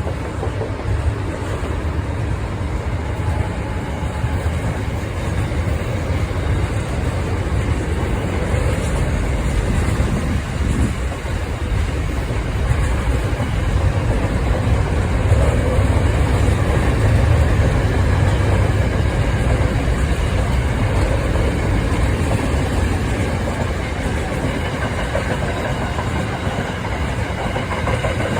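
Freight train passing, a steady loud rumble of wagons on the track that swells a little past the middle.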